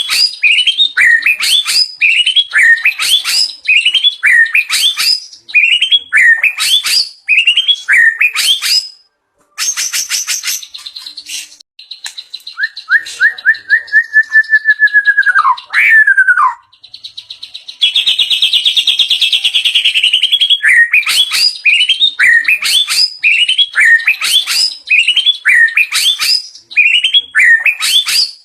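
White-rumped shama (murai batu) singing loudly, repeating a sharp sweeping note about twice a second, the mimicked phrases (isian) of its learned repertoire. Midway the repeats break into rapid chattering trills and then a long falling whistle, before the repeated notes resume.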